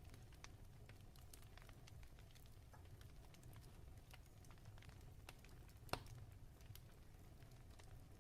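Fireplace crackling softly: scattered small irregular pops over a low rumble, with one sharper pop about six seconds in.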